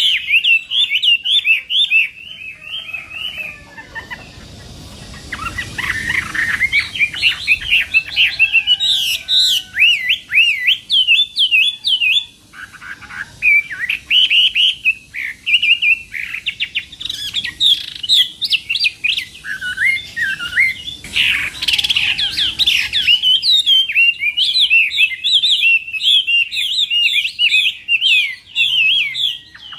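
Chinese hwamei singing a long, varied song of rapid whistled notes and repeated phrases, loud and nearly continuous, with a brief lull a few seconds in.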